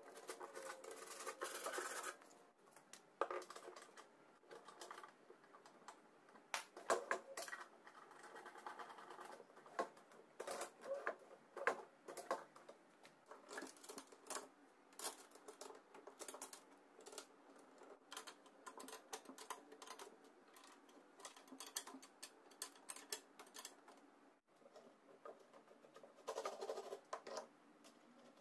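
Irregular light clicks and taps, spread unevenly and quietly.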